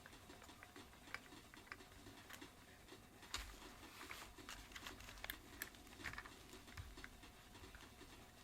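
Faint, irregular small clicks and taps of plastic parts being handled and pushed together while fitting a vacuum cleaner's rotating-brush head back together.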